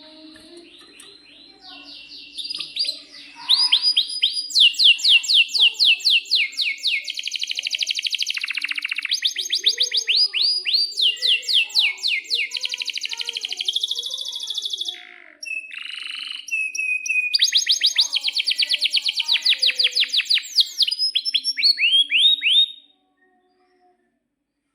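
Male canary singing long rolling trills: fast runs of repeated, quickly falling notes that change speed and pitch from phrase to phrase. The song starts about two seconds in and stops abruptly near the end.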